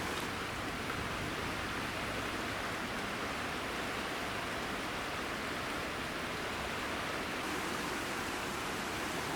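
Tama River water rushing steadily, an even wash of noise with no breaks.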